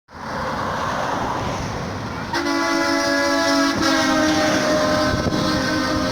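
Bus running on the highway with engine and road noise, then a loud multi-tone, train-style air horn sounds about two seconds in, holding one long chord with a brief break in the middle.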